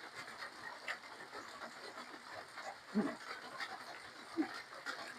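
Close-up eating sounds of spicy seafood papaya salad being chewed, with a couple of short hummed "mm" sounds, one about three seconds in and one near the end.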